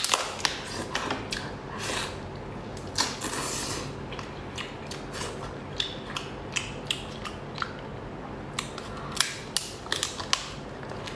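Lobster shell cracking and crunching as it is broken apart and eaten: a run of sharp, irregular cracks and clicks.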